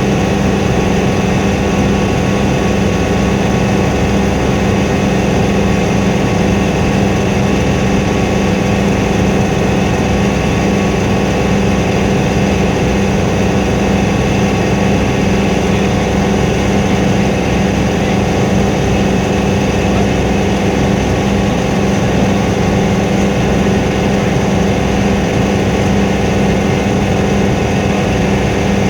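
Helicopter in flight: a steady, unchanging drone of engine and rotor.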